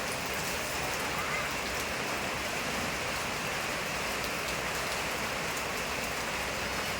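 Steady rain falling, an even hiss of water with faint drop ticks in it.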